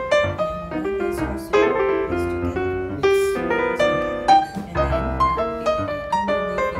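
Background piano music with a quick, steady flow of notes.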